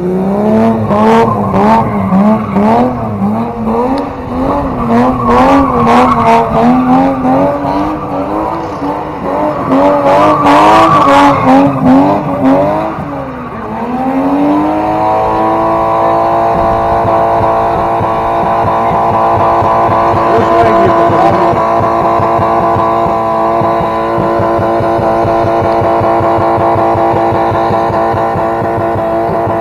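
BMW E30 engine revved hard: the pitch bounces rapidly up and down with sharp pops for about thirteen seconds. It then dips briefly and holds at a steady high rev.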